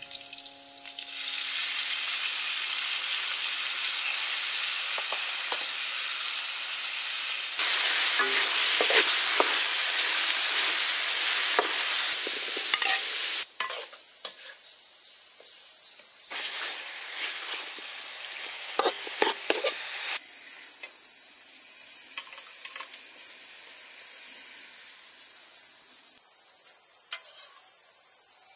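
Beef and vegetables stir-frying in a wok: steady sizzling, with a metal spatula scraping and clicking against the pan. The sizzle swells about eight seconds in.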